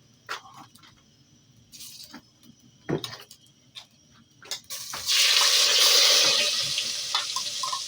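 Light clicks and knocks of kitchen work, then about five seconds in a sudden loud hiss as ingredients go into a hot cooking pot. The hiss slowly dies down, with small bubbling pops near the end.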